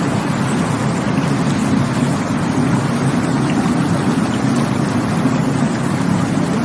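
Rushing water: a steady, unbroken rush of a stream or waterfall, strongest in its low, full tones.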